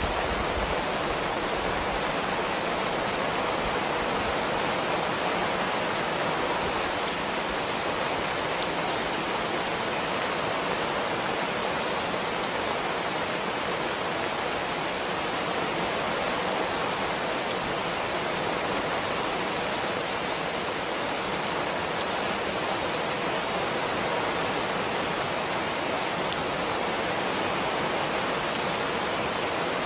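Steady heavy rain, an even hiss that holds at the same level throughout.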